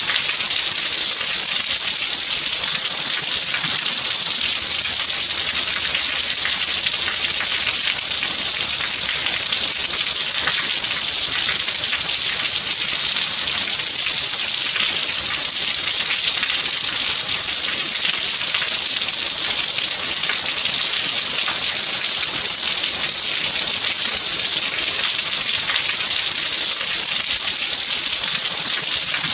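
Steady rain falling, an even, high hiss of many drops that keeps the same level throughout, with no thunder.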